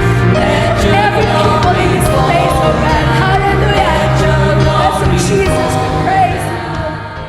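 Live worship music: a praise band with singers performing a song, loud and full, fading out near the end.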